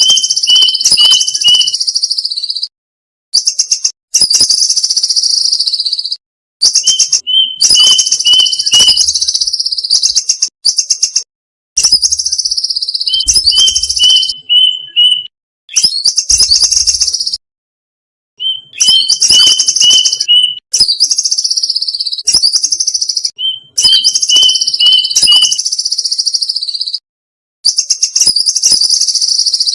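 Violet cuckoo calls played as a lure recording: groups of about five quick, high, evenly spaced notes, repeated about every five or six seconds, over a loud, shrill, high trilling layer that starts and stops abruptly.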